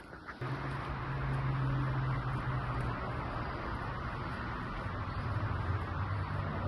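A steady low mechanical hum with a hiss over it, like an engine or machine running, starting suddenly about half a second in.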